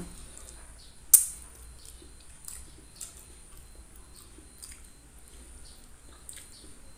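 Close-miked chewing of rice and fish head eaten by hand, with soft wet mouth clicks and smacks. One sharp, louder smack about a second in.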